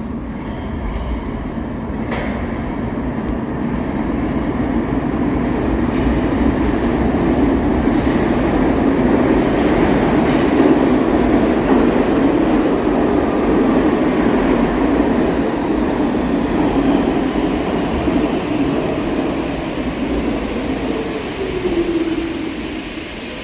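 New York City subway train running on the rails. Its noise builds to a peak about halfway through and then eases off, with a whine gliding down in pitch near the end.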